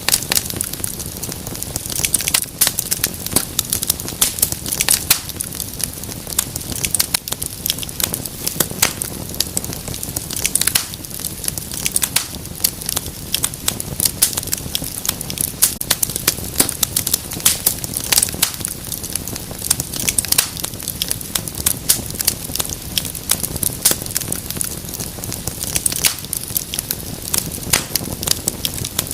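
Wood fire in a fireplace crackling, with frequent sharp pops and snaps over a steady low hiss of burning.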